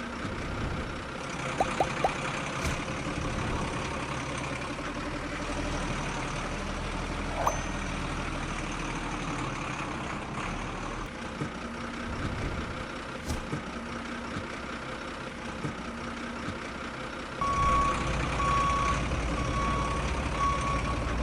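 Miniature truck running with a steady mechanical hum and a few clicks. Near the end the hum gets louder and a reversing beeper starts, beeping about once a second.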